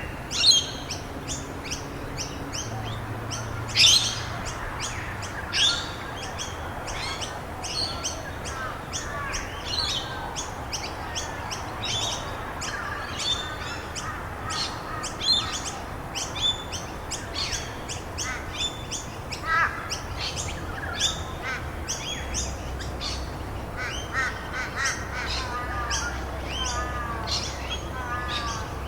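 A chorus of songbirds chirping and calling, many short sharp chirps with a few louder calls, over a steady background hiss.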